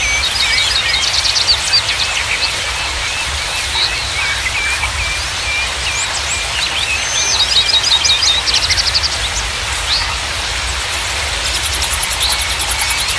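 Running water with several small songbirds chirping and trilling over it. Near the end, a very high, fast, buzzy trill joins in.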